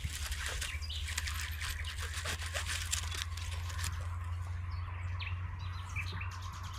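Outdoor forest ambience: a steady low rumble and irregular rustling, with a few short bird chirps in the second half.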